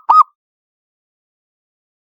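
Zebra dove (perkutut) cooing: one short final note of its rapid rolling phrase, about a quarter second long, right at the start.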